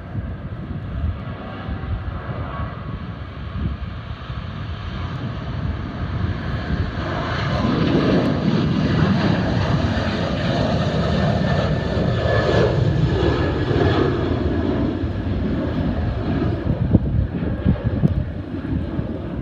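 Jet airliner's engines passing, the noise swelling about a third of the way in and staying loud before easing off, with wind buffeting the microphone throughout.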